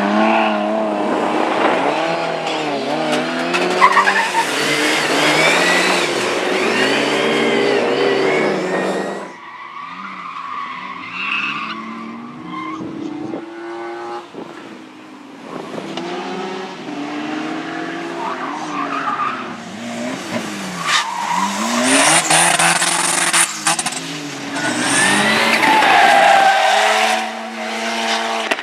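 Rally cars working hard, engines revving up and down through gear changes, with tyre squeal and skidding. One car is close and loud for the first third, then the sound fades to a more distant car. Another loud pass comes about two-thirds of the way in.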